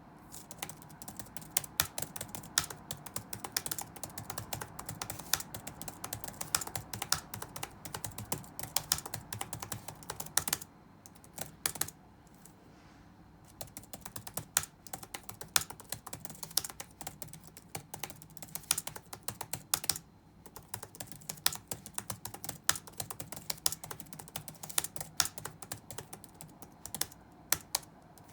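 Rapid touch-typing on a computer keyboard: a dense, irregular run of keystrokes, with a short pause about twelve seconds in, over a faint steady background hum.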